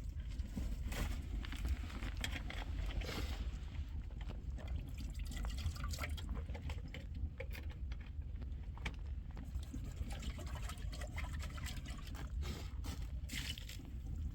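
Milk being poured, over a steady low rumble.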